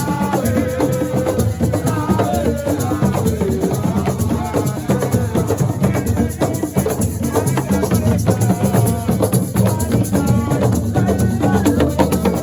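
Live Assiko music: drums, rattles and other hand percussion playing a fast, dense rhythm, with a voice singing over it.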